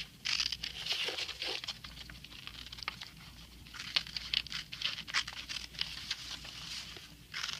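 Scissors cutting paper: an uneven run of short snips, with the paper rustling as it is handled and turned.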